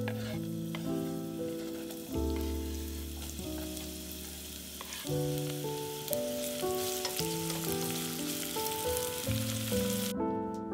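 Sliced leeks frying in hot olive oil in a pot, sizzling while a plastic slotted spatula stirs them. The sizzle grows louder and cuts off suddenly near the end. Background music plays alongside.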